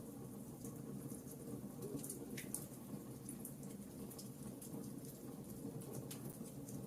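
Wood logs burning in a fireplace: a faint low, steady fire rumble with scattered small crackles and pops.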